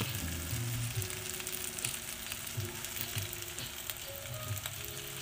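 Two pieces of okonomiyaki sizzling as they reheat in a nonstick frying pan: a steady, crackly hiss with fine pops.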